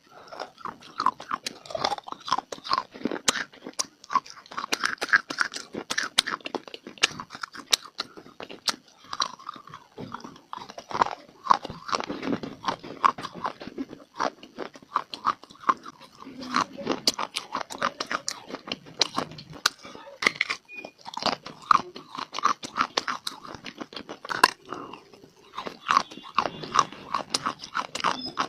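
Close-miked crunching and chewing of dry clay (mitti): dense, sharp crackles several times a second as pieces are bitten and ground between the teeth, with brief pauses between bites.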